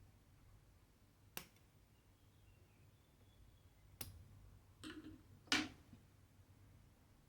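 Small clicks and taps from hand cross-stitching: four short sharp ticks spread over several seconds, the loudest about five and a half seconds in, over a faint low hum.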